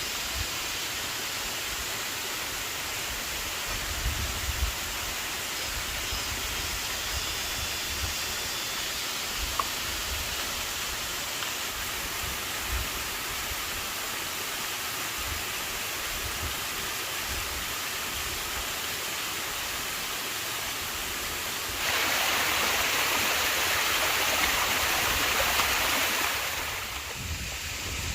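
Steady rush of running water, with a louder hissing stretch of about five seconds near the end.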